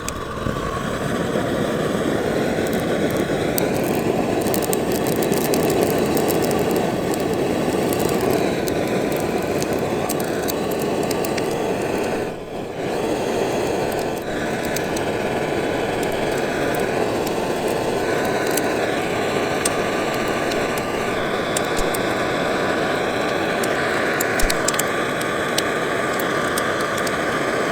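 Shinfuji Do-Ga GT-110 cassette-gas torch burner running steadily with its flame on damp wood, with scattered crackles as the wood catches; the noise drops briefly about halfway through.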